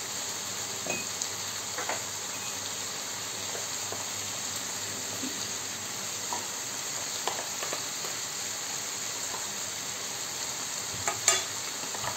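Chicken and vegetable filling sizzling steadily in a frying pan, with a few faint clicks and one sharper click near the end.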